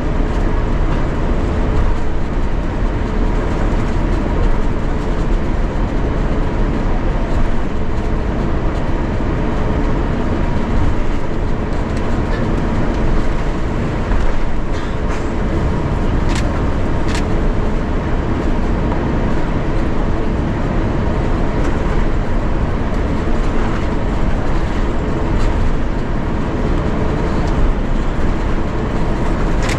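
Steady cabin noise inside an Airbus A350-900 on the ground before takeoff: a loud, even rumble with two constant hums, and a few light clicks about halfway through.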